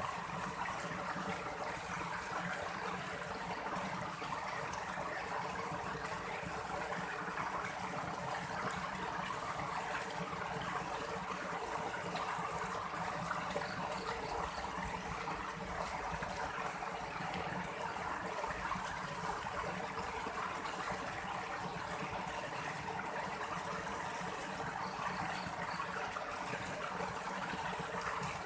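Stream water flowing, a steady even rush with no breaks.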